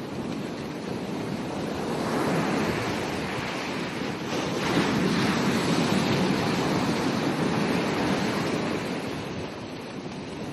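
Ocean surf: a wave breaks and washes up the beach, swelling about two seconds in, staying loud through the middle and easing off near the end, with some wind on the microphone.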